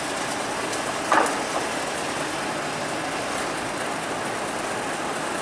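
Steady rushing of river water through a sluice gate, with one short sharp knock about a second in.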